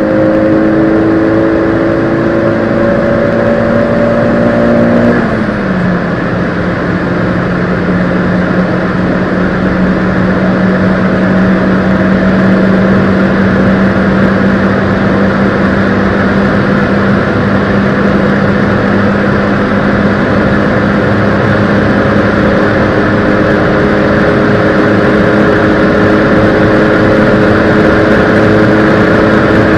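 Small petrol hatchback engine pulling under acceleration, its pitch climbing slowly, then dropping sharply at a gear change about five seconds in. In the next gear it pulls on at a nearly steady, slowly rising pitch, with steady road and wind noise underneath.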